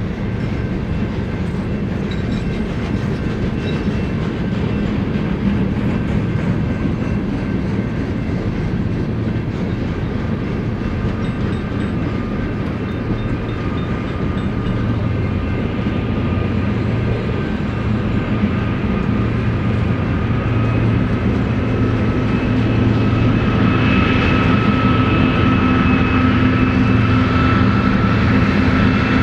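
Freight train rolling past on the rails, a steady rumble with the clickety-clack of wheels over rail joints. In the last several seconds a steady, whining tone grows louder over it.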